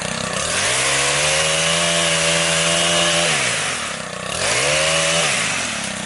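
Two-stroke chainsaw running and being revved twice. Its pitch rises and holds high for about three seconds, drops back to idle, then climbs again briefly and settles back down.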